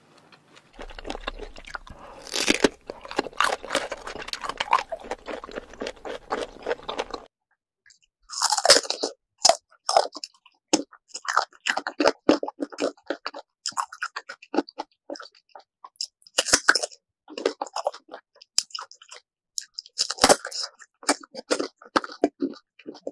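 Close-up crunching and chewing of raw sour mango. The first stretch is dense crunching over a faint low hum. After a short break come separate loud crunchy bites and chewing.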